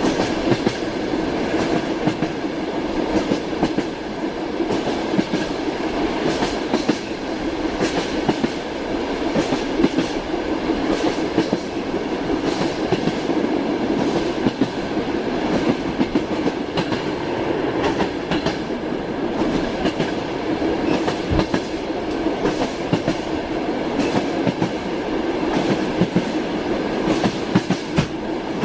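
Passenger train wheels clacking over rail joints at uneven intervals above a steady rolling rumble, heard from inside the carriage.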